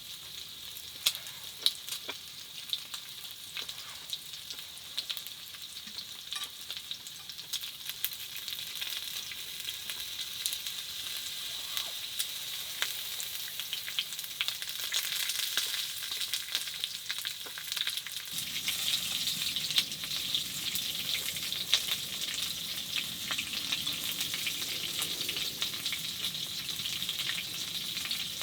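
Food sizzling in a hot pan, a steady frying hiss with many small pops, growing louder through the second half. A lower, fuller layer joins the sizzle about eighteen seconds in.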